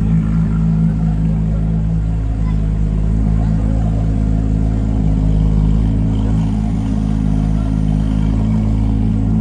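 Porsche 911 GT3 RS's flat-six engine idling steadily.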